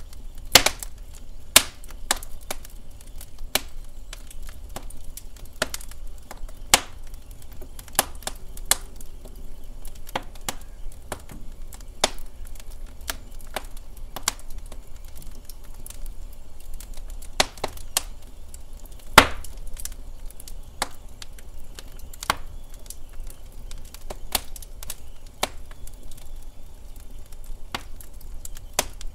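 Wood fire burning in a fireplace: irregular sharp crackles and pops from the burning logs over a low steady rumble, the loudest pop about nineteen seconds in.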